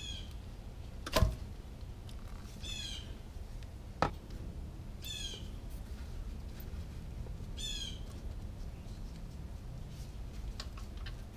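Short, harsh, squawking calls, like a bird's, repeating every two to three seconds. They are broken by two sharp knocks, a loud one about a second in and another about four seconds in, as tools and the drain pan are handled under the motorcycle.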